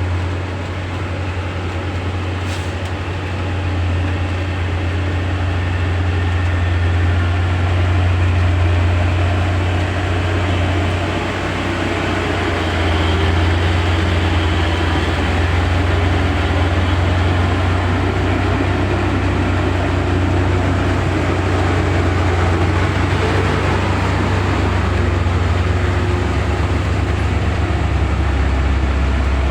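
Vehicle engines and road noise: a steady, loud, low drone.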